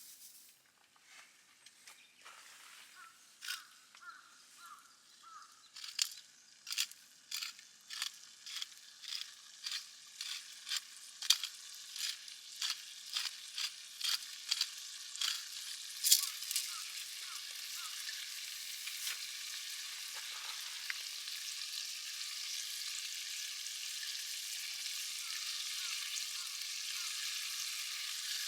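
Food frying over heat: sharp spattering pops that come louder and closer together give way, about halfway through, to a steady sizzle that slowly grows louder.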